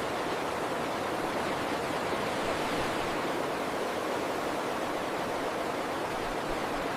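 Steady, even rushing noise, unchanging in level throughout.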